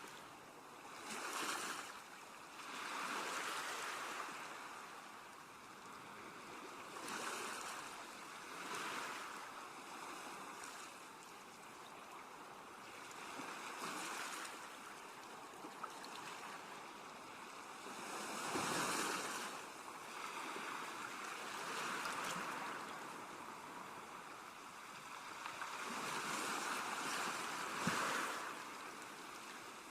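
Sea waves breaking and washing on a shore, swelling and ebbing every few seconds.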